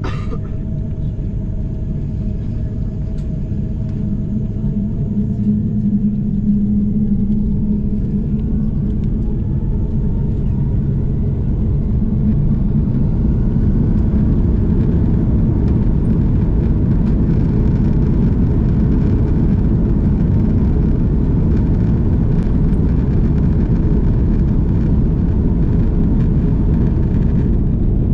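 Airbus A330-300's jet engines heard from inside the passenger cabin, spooling up with a rising whine about a third of the way in, then settling into a steady, louder rumble at takeoff power.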